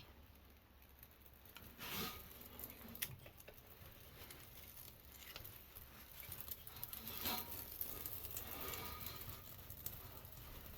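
Faint rustling and scattered small clicks over a low steady hum, with a sharp click about three seconds in.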